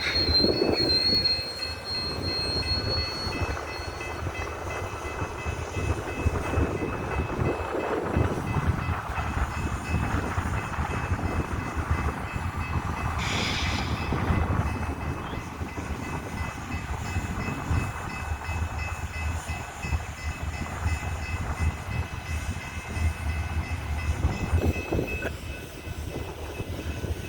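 Coal train rolling slowly by: a steady rumble and clatter of the cars' wheels on the rails, with a thin high wheel squeal that fades out over the first few seconds and a short squeal again about halfway through.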